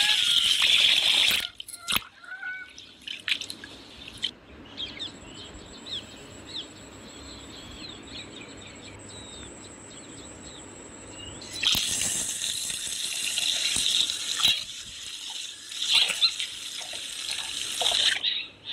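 Curry masala sizzling in hot oil in an open pressure cooker, with a steel ladle stirring and scraping against the pot. The sizzle is loud for the first second and a half, drops to a quiet hiss, and turns loud again about twelve seconds in, broken by short scrapes and clicks.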